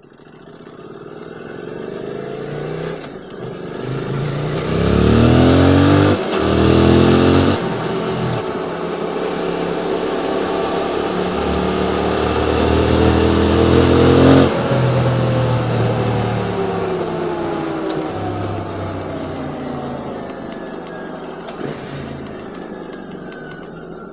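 QJ Motors SVT650X parallel-twin engine through an Arrow Racetech slip-on exhaust, accelerating hard: the revs climb with two quick dips at upshifts about six and seven and a half seconds in, then it pulls steadily at speed. About fourteen seconds in the throttle is shut and the engine note falls away as the bike slows.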